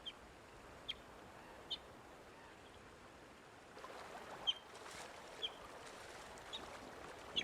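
Short, sharp, high-pitched animal calls, about seven in all, spaced roughly a second apart, over the faint wash of a flowing river that swells a little about halfway through.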